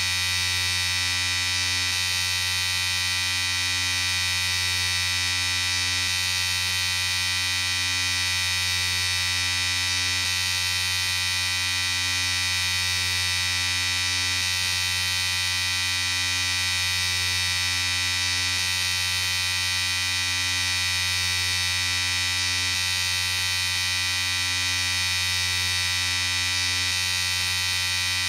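Electric shaver running continuously with a steady, bright buzz and a faint slow pulse in its tone about once a second.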